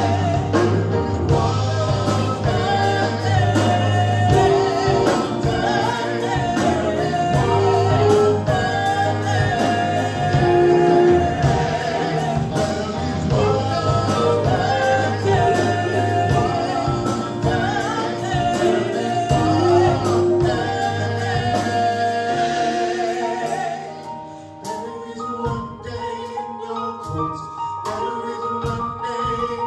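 Gospel praise band and singers performing a worship song, voices over a full band with a steady beat and strong bass. About 24 seconds in, the band drops to a quieter passage of sustained chords.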